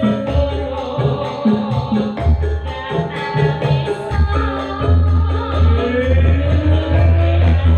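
Live Javanese sragenan-style campursari music: a singer with a band, over strong, rhythmic low bass notes and jingling percussion.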